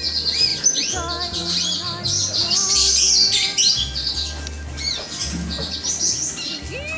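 Many small show birds chirping and twittering at once in quick overlapping calls, over background music with sustained notes and a low pulsing bass.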